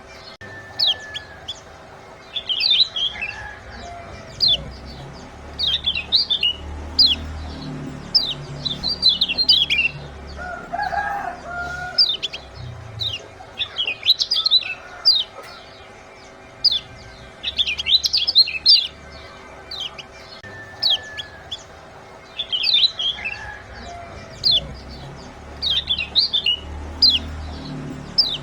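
Lemon-bellied white-eyes (kecial kuning) calling in quick clusters of high, sharp 'ciak' chirps every second or two, over a faint low hum; the same run of calls repeats about every 17 seconds, as a looped lure track. A lower, softer call from another bird comes in once, about 11 seconds in.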